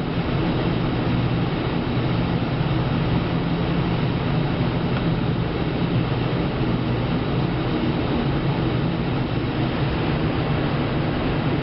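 Steady, loud mechanical drone: a constant low hum under an even rushing noise, like engine or vehicle running noise, with no change in pitch.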